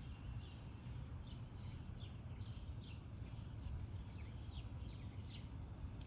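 Songbirds chirping: a scattered string of short, high chirps that drop in pitch, a few each second, over a low steady rumble.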